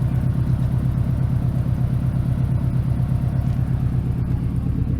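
A car engine idling steadily, with an even, rapid low pulse.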